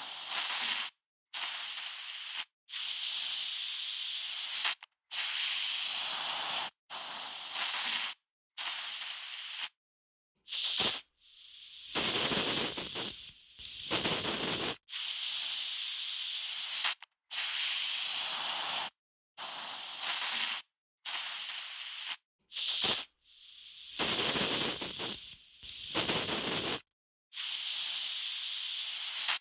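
Aerosol spray can spraying in a run of hissing bursts, each lasting one to two seconds and broken by short silent gaps; a few bursts are longer and rougher.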